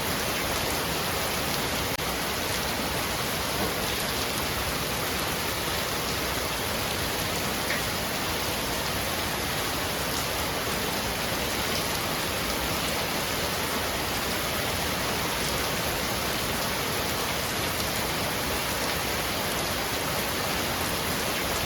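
Heavy rain falling on a roof: a steady, dense hiss with faint scattered drop ticks.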